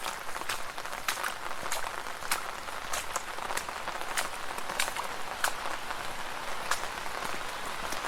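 Footsteps splashing through shallow puddles at a steady walking pace, a short wet slap with each step, over a continuous watery hiss.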